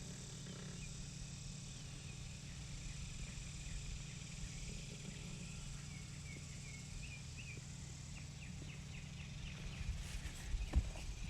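Microwave oven running with a steady low electrical hum while welding rods arc inside it, with a few sharp clicks near the end. Faint chirping comes from outdoors in the middle.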